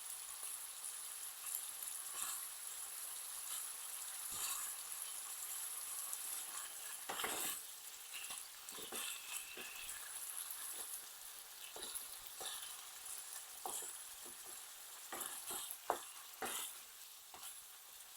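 Chicken pieces sizzling as they fry in oil in a pan, with scattered clicks and scrapes of a utensil stirring them; one sharper knock near the end.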